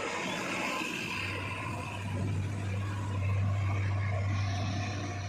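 Heavy diesel engine running with a steady low hum. The hum dips briefly near the start, then builds and is loudest about three seconds in.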